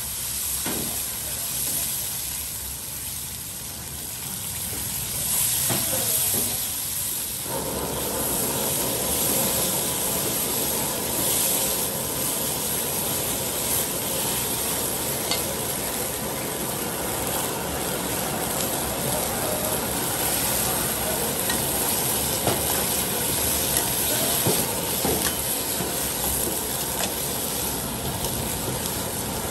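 Aromatics and sauce sizzling and frying in a nonstick wok on a gas burner, stirred with a metal slotted spoon. The sizzle grows louder and fuller about seven seconds in and then runs on evenly.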